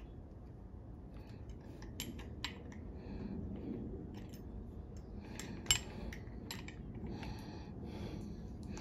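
Light metallic clicks and taps of a deadbolt lock's parts being handled and fitted, with one sharper click about five and a half seconds in.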